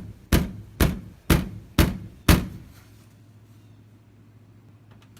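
Hard knocking on a door: a run of heavy, evenly spaced knocks about two a second, stopping about two and a half seconds in.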